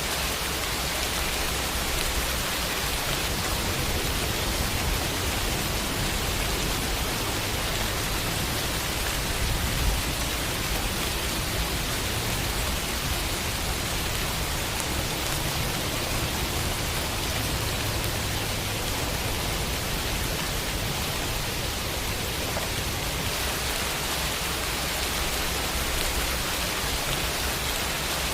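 Steady rain falling and pattering on a window, an even hiss of water.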